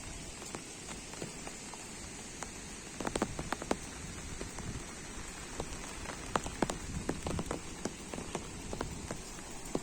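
Rain falling steadily, with a hiss of rain and many sharp drop taps that come thicker from about three seconds in.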